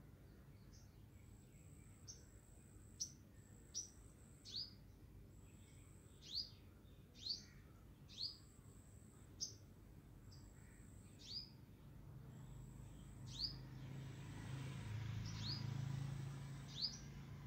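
A small bird calling repeatedly: short, high chirps that sweep downward, about one a second at uneven intervals. A low rumble swells toward the end.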